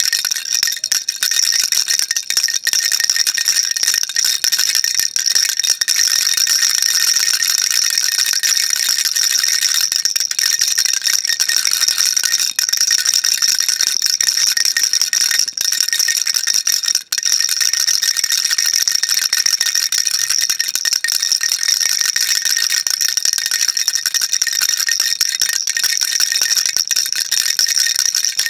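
Baby rattle shaken continuously, a dense, steady, high-pitched rattle with one brief break about two-thirds of the way through.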